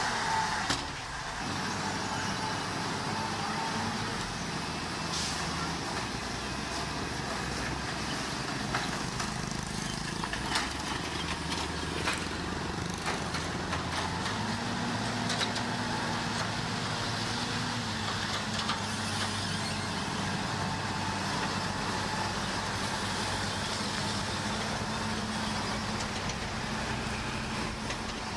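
Diesel engine of heavy earthmoving machinery running steadily, with clanks and rattles over it. The engine speeds up about halfway through and settles back a few seconds later.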